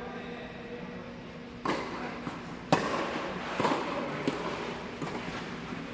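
Tennis ball being struck by rackets and bouncing on the court during a rally: a string of sharp pops starting a little under two seconds in, the loudest a second later.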